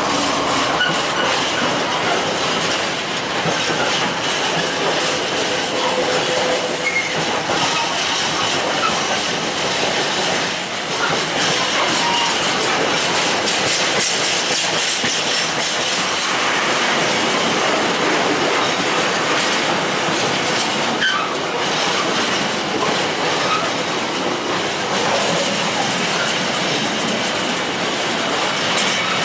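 A train running on the rails, wheels clattering over rail joints with brief squeals, a steady loud rumble throughout.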